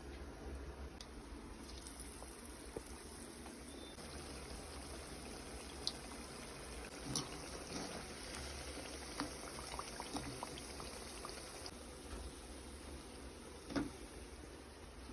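Potato pakoras deep-frying in hot oil: a faint steady sizzle with occasional pops and crackles.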